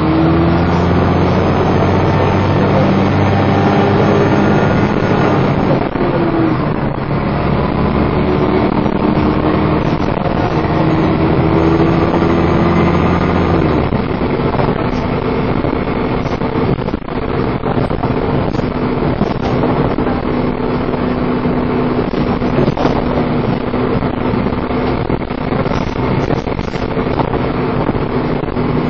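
Dennis Trident 2 double-decker bus engine pulling hard under acceleration, its revs climbing twice with a drop between them, then holding steady. A high 'hoover' whine rises over it during the hard pulls.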